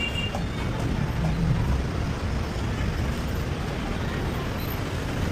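Street traffic: a steady low rumble of passing vehicles and engines, swelling slightly about a second and a half in.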